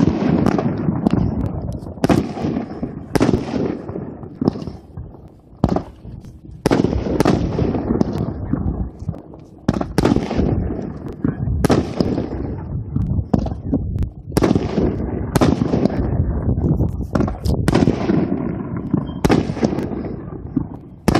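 Consumer aerial fireworks going off in a long run of sharp bangs, about one a second, each trailing off in a fading rumble.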